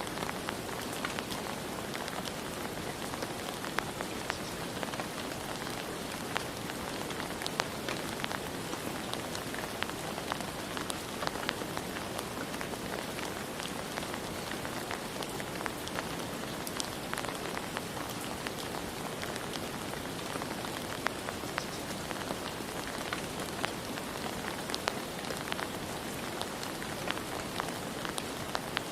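Steady rain falling, a constant hiss with many individual drops pattering and ticking sharply through it.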